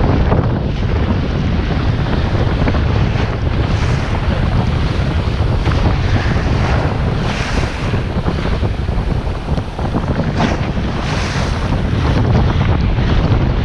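Strong wind buffeting the microphone with a heavy low rumble, over surf washing in on the shore in swells, the loudest around the middle and again near the end.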